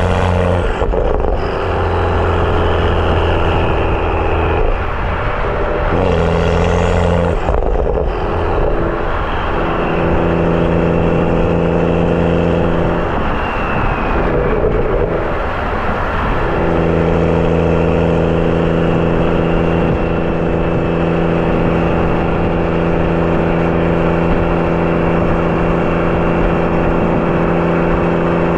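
BMW F30 335i's turbocharged N55 straight-six, running through a catless downpipe and M Performance exhaust while driving. A steady engine note changes pitch and load several times in the first half, then holds an even cruise from about halfway through.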